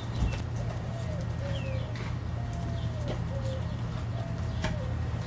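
Birds calling in the background: several short pitched calls and a few higher falling chirps. Under them is a steady low hum, with a few light taps and clicks.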